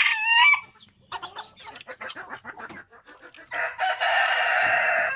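Rooster crowing: the end of one crow at the start, and a long crow beginning about three and a half seconds in. In between, chickens cluck in short bursts.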